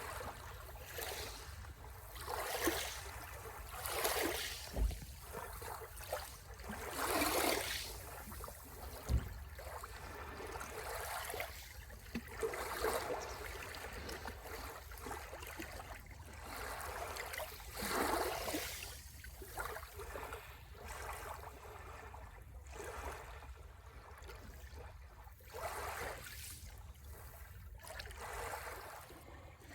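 Small sea waves washing and lapping at the shore, coming in uneven surges every second or two.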